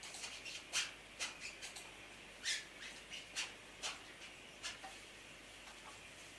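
Oil-based marker pen squeaking against the rubber of a large inflated balloon in short, irregular strokes as a picture is drawn on it.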